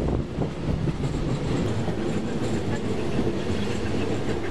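Steady rumble of a moving railway carriage running along the track, heard from on board the train.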